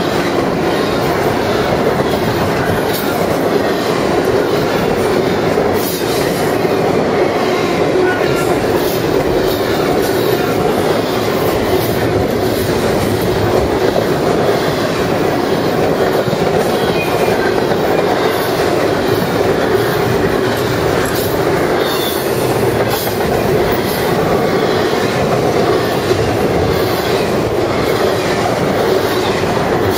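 Double-stack intermodal freight train's well cars rolling past close by: a steady, loud rumble of steel wheels on rail, with occasional sharp clicks.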